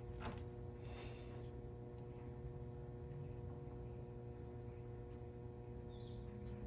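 Quiet room tone with a steady low hum, broken by one light click about a quarter second in.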